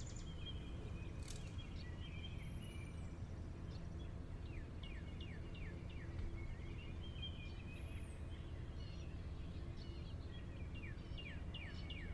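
Birds chirping over a steady low background hum, with two runs of quick, short falling chirps and a couple of faint high gliding calls.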